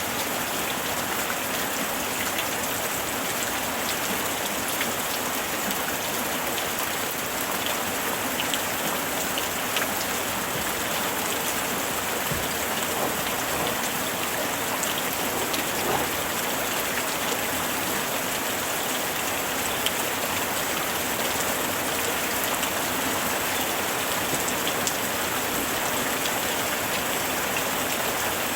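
Steady summer rain falling on surfaces, a dense even hiss with scattered individual drops ticking through it.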